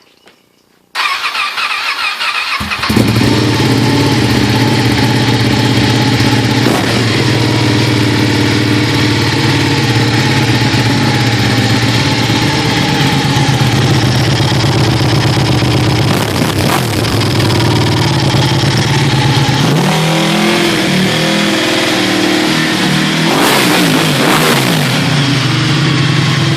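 Ducati Panigale 1199's Superquadro L-twin engine with a Termignoni exhaust, cranked by the starter for under two seconds, then catching and idling steadily and very loud. About twenty seconds in, the revs rise and fall a few times.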